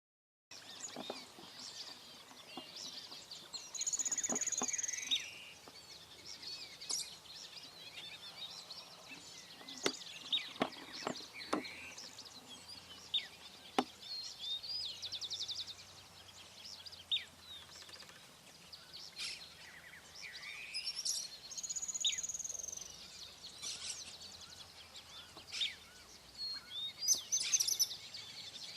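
Several wild birds calling, with chirps, a high thin whistled call about four seconds in and again near twenty-two seconds, and a short buzzy trill midway. A few scattered sharp knocks come in between.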